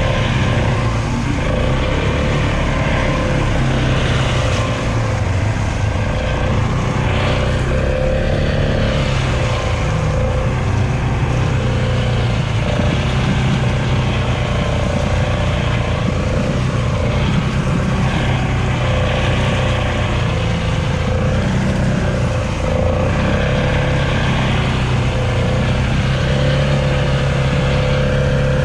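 ATV (four-wheeler) engine running steadily at a near-constant speed.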